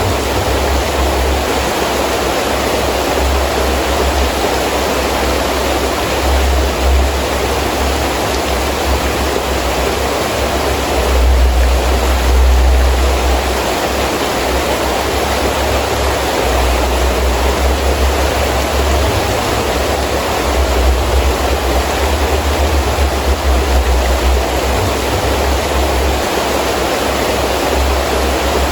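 Heavy rain falling steadily in strong wind, with a gusty low rumble underneath that swells briefly about eleven seconds in.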